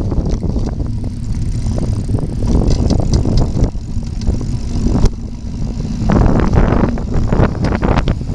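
Wind buffeting the microphone of a camera riding along on a bicycle, a heavy steady rumble, with frequent knocks and rattles from the bike rolling over an uneven trail surface, busier near the end.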